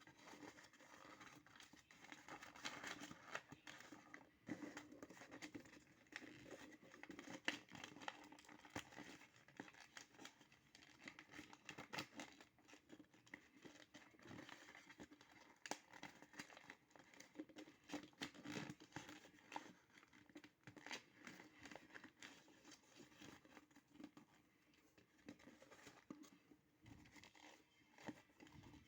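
Faint paper rustling and crinkling, with many small irregular clicks and scrapes, as a sheet of paper is handled and folded into a paper boat.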